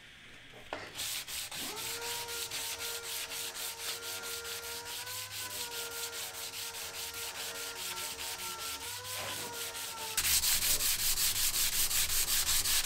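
Power sander grinding a metal blade: an even, fast rasping of several strokes a second over a steady whine that rises slightly twice. After about ten seconds the rasping gets louder and the whine drops out.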